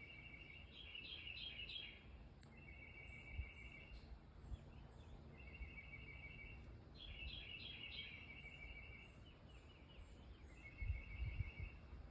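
A songbird singing a repeated phrase in the woods: a steady trill, sometimes running into a quick jumble of higher notes, coming every few seconds. Fainter high chirps from another bird sound behind it, and there are a few low thumps near the end.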